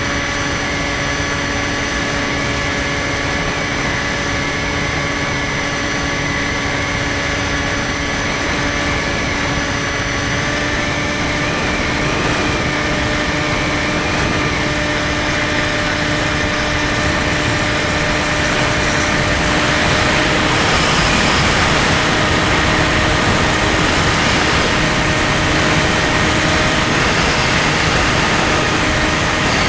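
Electric motor and propeller of a Skywalker 1680 radio-controlled plane running steadily in flight, a constant hum of several held tones whose pitch steps slightly about a third of the way in. Rushing wind noise grows louder over the last third.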